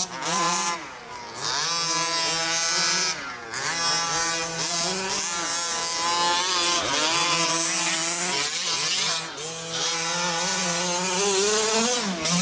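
Several 1/5-scale Baja 5T buggies' small two-stroke gas engines revving and easing off as they race around the track, their overlapping notes rising and falling in pitch.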